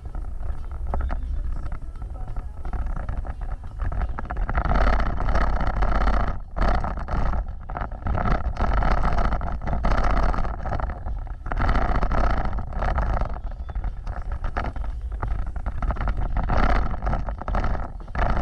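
Off-road vehicle driving over rough ground: a steady low engine and drivetrain rumble, with louder stretches of noise as it works over the terrain several times.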